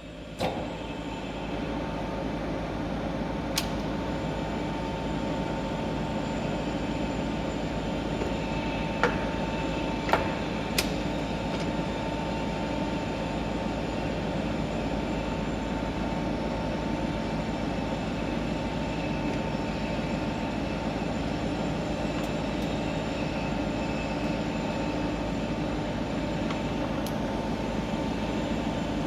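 Metallexport TUD-50 centre lathe starting about half a second in, then running steadily with a constant hum and a steady high tone. A few sharp clicks come over the running sound.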